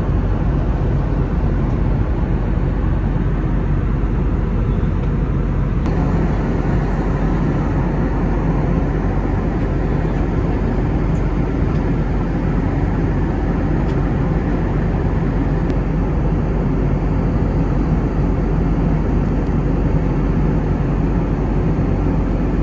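Steady cabin noise of an Airbus A320neo in flight: a constant low rumble of engines and rushing air heard from inside the cabin. About six seconds in, the middle of the sound rises slightly and then holds steady.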